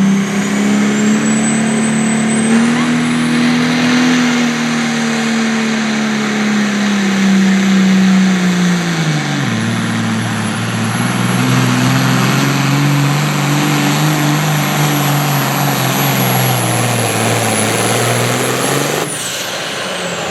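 Turbocharged pulling engine running hard under load, with a high turbo whistle that climbs over the first few seconds and then holds. About nine seconds in the engine's pitch drops and stays lower. Near the end the engine note drops away abruptly and the whistle falls in pitch as the turbo spools down.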